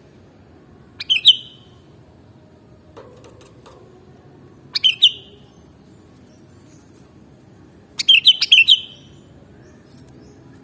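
Sooty-headed bulbul (kutilang) singing three short phrases of quick notes, the last about a second long and the loudest, over a low steady background noise.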